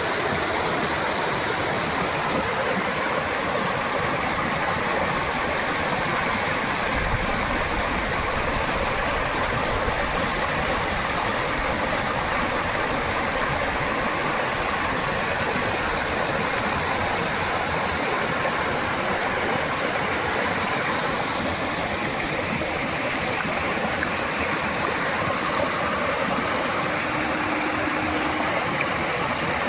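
Fast-flowing water released from a dam, a steady rushing that holds at one level throughout.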